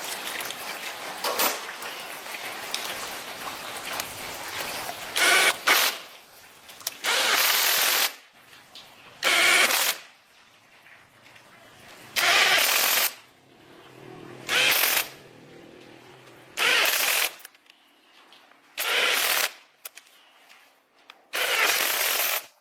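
A power tool run in short bursts of about a second each, repeated roughly every two seconds, with quieter gaps between them.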